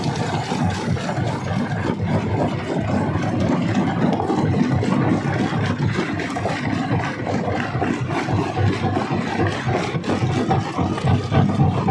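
Rock crusher running under load: a steady, dense rumble with a rapid, irregular clatter of stone.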